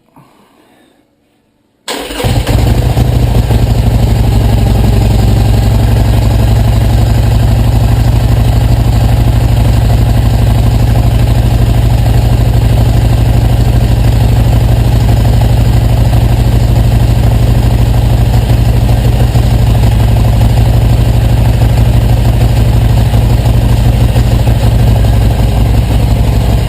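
2013 Harley-Davidson Iron 883's air-cooled V-twin, breathing through its stock mufflers, cold-started about two seconds in, catching at once and then idling steadily.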